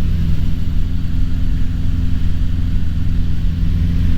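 Cessna 150's Continental O-200 four-cylinder engine and propeller droning steadily in cruise flight, heard from inside the cabin.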